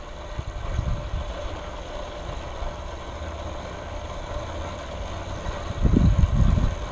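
A motor vehicle engine running, a steady low rumble that swells louder about six seconds in.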